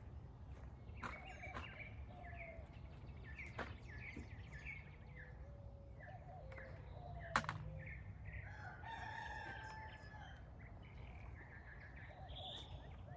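A rooster crows once, a longer held call about nine seconds in, among many short chirping bird calls. A sharp click sounds about seven seconds in.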